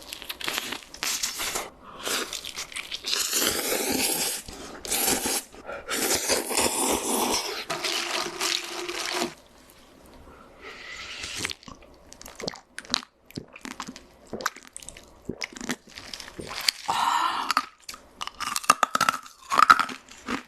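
Close-miked eating sounds: crunchy food being bitten and chewed with dense, crackly crunches. After about nine seconds the crunching gives way to softer chewing with scattered sharp clicks, and picks up again near the end.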